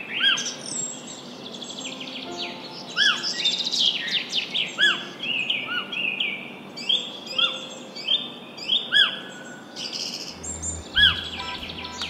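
Songbirds chirping and singing, several overlapping, with short arched whistled notes recurring every second or two over quicker twittering.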